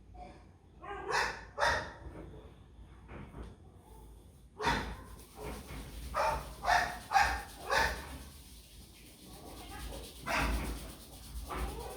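A dog barking in irregular runs of short barks: a pair about a second in, then a string of barks from about five seconds in.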